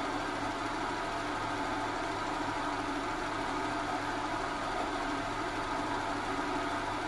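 Mazda Familia Astina's engine, about 360,000 km old and nearly fully warmed up, idling steadily. It carries a slight extra noise that the owner puts down to the water pump. A sound level meter a metre away reads about 68 dB(A).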